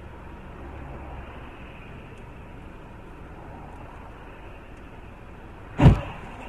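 Steady road and engine noise heard from inside a moving car, then near the end a single loud bang of a collision as the car is struck.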